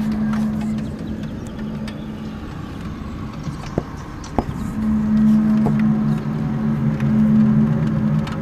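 A low, steady droning hum of two held tones: the strange noise heard outside, of unknown source. It drops away about a second in and comes back about five seconds in, with a couple of sharp clicks in the quieter gap.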